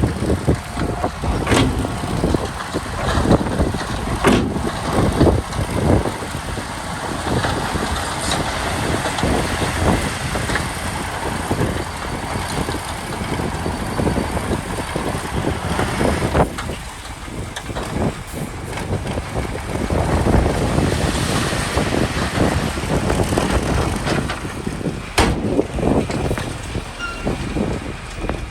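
Heavy diesel construction machinery running, with repeated knocks and crashes of stone tumbling and being pushed.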